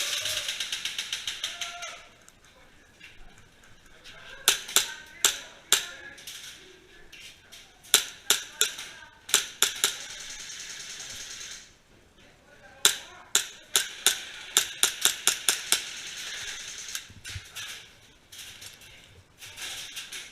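Airsoft guns firing: a rapid full-auto burst in the first couple of seconds, then strings of sharp single shots in quick succession, in several bursts through the rest.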